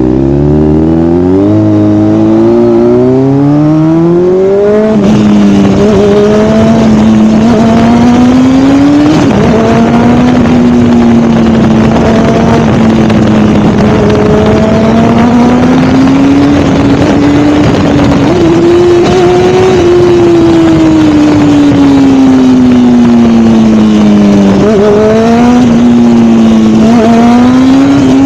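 Sportbike engine through an aftermarket MGP exhaust, accelerating hard through several quick upshifts in the first few seconds. It then runs on at speed, the engine note slowly rising and falling, with a couple of quick drops and climbs in pitch near the end.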